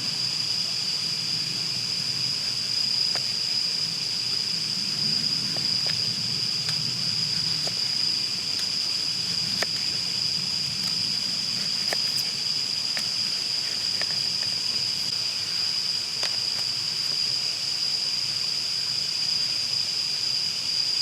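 Steady, unbroken high-pitched insect chorus, one even buzzing tone, with scattered faint clicks and crackles.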